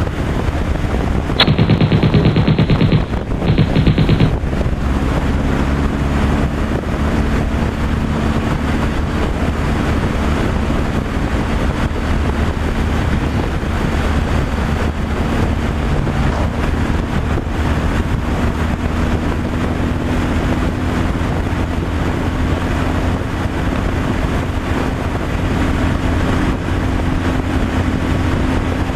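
Semi-truck cab noise at road speed: steady engine and road noise. About a second and a half in, a loud, very rapid rattling burst lasts about two seconds, breaks off briefly, and comes back for under a second.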